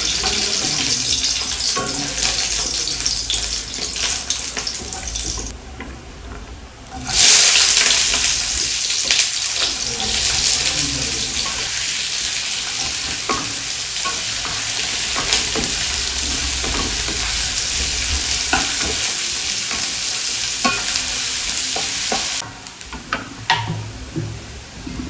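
Garlic and dried red chillies hitting hot oil in a pan for a tempering: a loud sizzle starts suddenly about seven seconds in, with the clicks and scrapes of a spatula stirring, and stops abruptly near the end, followed by a few light knocks.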